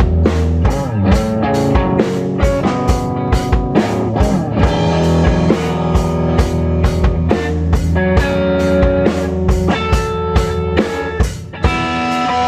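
Live rock jam: electric guitar and bass over a steady drum-kit beat, with guitar slides about a second in and held guitar notes in the second half.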